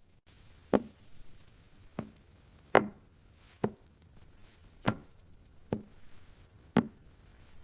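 Chopping on a cutting board: seven sharp chops, irregularly spaced about a second apart.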